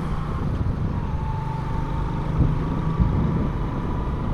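Motorcycle riding noise through an action camera's external microphone: a steady low rumble of engine and wind, with a faint steady whine above it.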